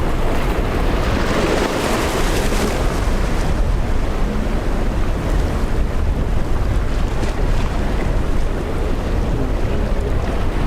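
Wind buffeting the microphone over the steady noise of rough surf and waves.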